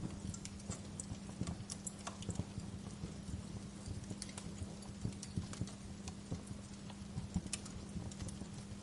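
Wood fire crackling in a fireplace: irregular sharp pops and snaps over a steady low rumble, one of the loudest pops about seven and a half seconds in.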